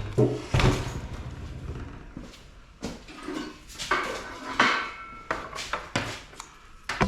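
Metal scrap parts clanking and knocking as they are handled and pulled apart, about eight separate strikes, a couple ringing briefly in the middle.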